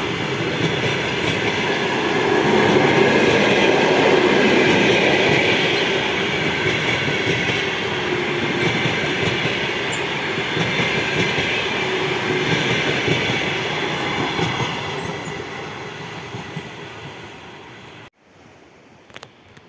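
Train running along the track: steady noise of wheels on rails, loudest a few seconds in, then fading away. It cuts off abruptly near the end to a quiet background with a few faint clicks.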